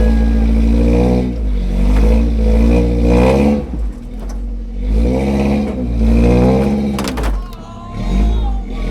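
Toyota pickup truck's engine revving up and falling back in repeated surges while rock crawling, with a few sharp knocks about seven seconds in.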